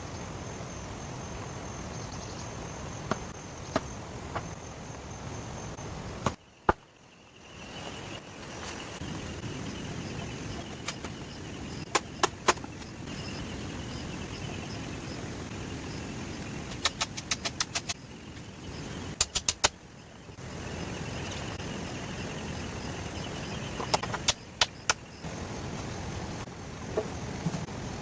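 Sharp knocks and clicks, single and in quick runs of several, over a steady background hiss.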